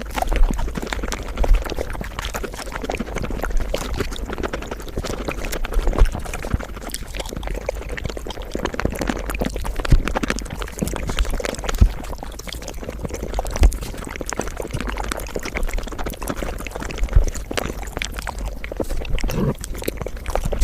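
Mukbang eating sounds played back at five times speed: a dense, rapid stream of chewing clicks and crackles, with a few louder low thumps scattered through it.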